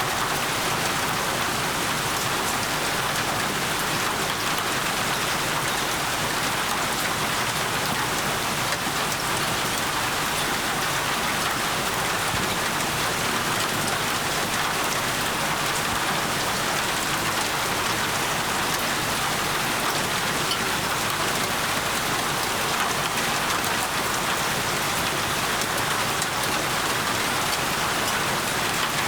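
Steady, heavy rainfall hissing evenly, with dense patter of drops on surfaces.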